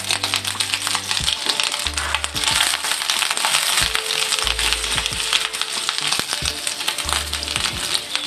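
Minced garlic and ginger with green chilies sizzling and crackling in hot ghee and mustard oil in a karahi. A spatula stirs through the pan from about halfway.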